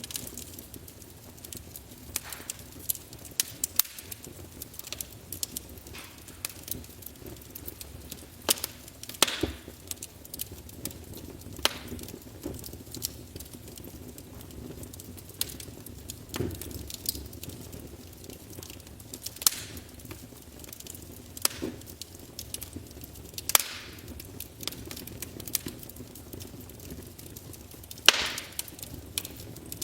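Wood fire burning in a fireplace, crackling with irregular sharp pops over a steady low rush of flame. The loudest pop comes near the end.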